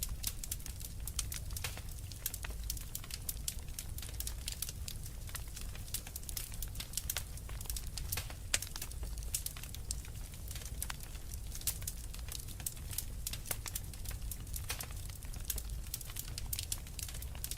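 Wood fire crackling steadily, with many small sharp pops at irregular moments over a low, steady rumble of the flames.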